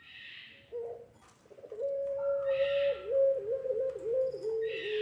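Puter pelung dove cooing: a short coo about a second in, then one long drawn-out call, held steady at first and then wavering with repeated dips in pitch, running past the end. Short hissy sounds recur in the background.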